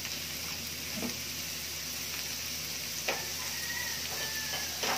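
Squash and ground beef sizzling in a metal wok, with a few sharp knocks and scrapes of a metal ladle against the pan about a second in, about three seconds in, and near the end.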